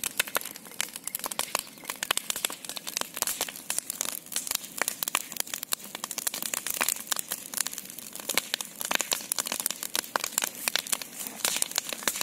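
Large bonfire burning, with a dense, irregular stream of sharp crackles and pops.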